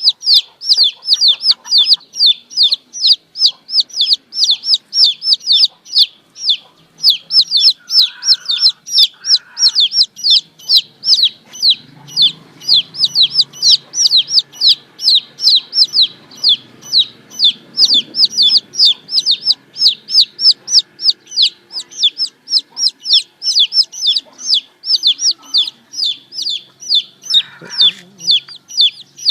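Baby chicks peeping: a continuous rapid string of high, falling 'cheep' calls, about three or four a second.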